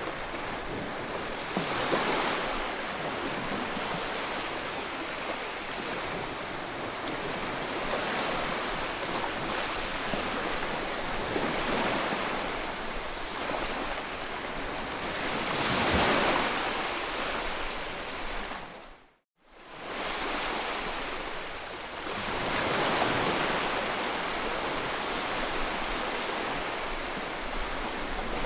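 Ocean surf: waves breaking and washing ashore in a steady rush, swelling with each larger wave, three times in all. The sound cuts out for a moment about two-thirds of the way through, then returns.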